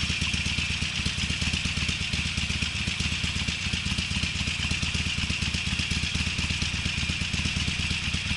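Harley-Davidson Sportster's V-twin running steadily through Screamin' Eagle mufflers: a low, even exhaust pulse with a steady higher hiss over it.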